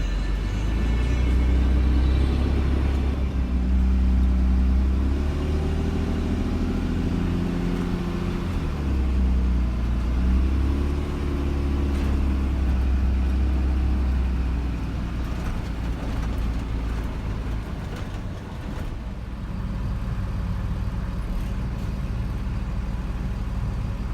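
Car engine and road noise while driving; the engine note rises and falls as the car accelerates and shifts through roughly the first fifteen seconds, then settles to steadier, slightly quieter running.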